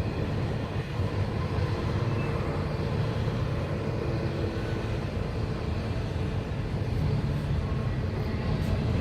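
Intermodal freight train cars carrying containers and trailers rolling past, a steady rumble of steel wheels on the rails.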